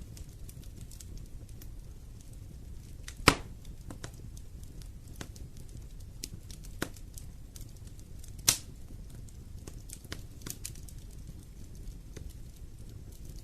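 Wood fire in a fireplace crackling, with a steady low rumble of burning and scattered sharp snaps, two loud pops at about three seconds and eight and a half seconds in.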